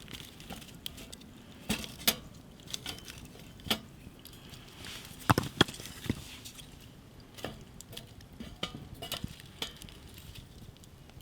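Camp cooking: irregular clinks and knocks of metal utensils against a pot, loudest in a quick cluster a little past the middle.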